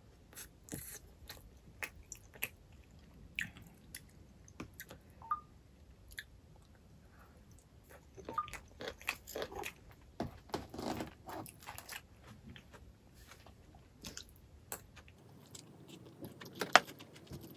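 Close-up chewing and biting of spicy chicken feet: irregular wet clicks, squishes and small crunches from the mouth, busiest in the middle, with one sharper click near the end.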